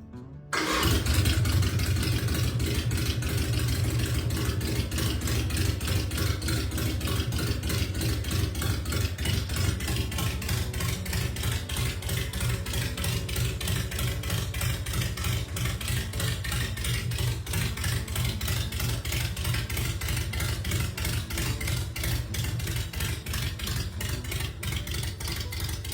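Harley-Davidson 1,200 cc Evolution Sportster V-twin on a custom hardtail chopper, running steadily with an even, rapid exhaust beat. It cuts in suddenly about half a second in.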